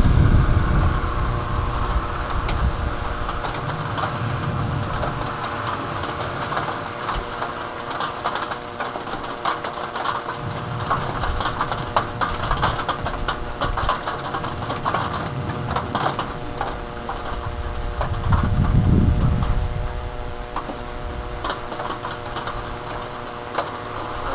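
Heavy rain mixed with hail pelting down, a dense patter of sharp hits, with low rumbles swelling and fading a few times. A steady hum of several tones runs underneath.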